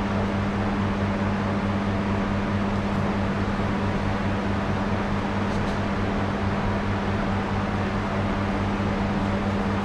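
Steady machine hum, a motor running without a break, with a strong low drone under an even rushing noise.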